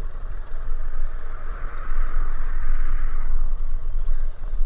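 Wind rumbling on the microphone of a moving bicycle, with a smooth rushing noise that swells and then fades over the middle of the stretch.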